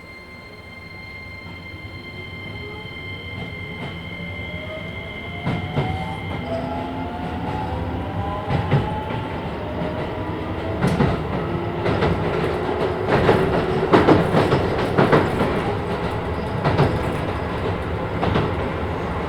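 Keisei 3000 series train with Toyo IGBT-VVVF traction inverters pulling away: the motor whine rises in pitch and grows louder as the train gathers speed. From about five seconds in, the wheels knock over rail joints more and more often, heard from inside the car.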